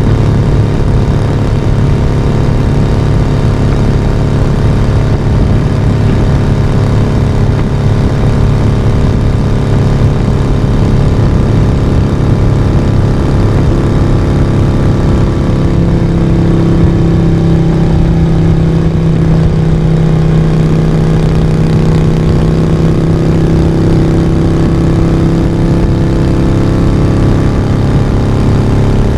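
Exhaust and engine of a Moto Guzzi V35, a 90-degree transverse V-twin, running steadily under way on the road. Its note changes about halfway through as the engine speed shifts.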